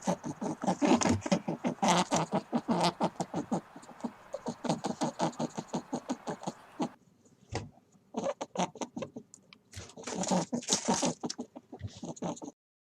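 A rapid run of short animal calls, several a second, breaking off about seven seconds in and starting again a second later.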